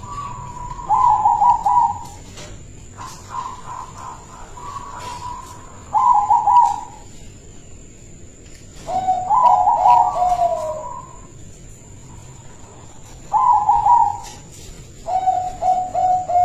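Zebra dove (perkutut) cooing its rapid, stuttering song in five loud phrases, about a second in, near six seconds, around nine to eleven seconds, near thirteen seconds and near the end, with softer cooing in between.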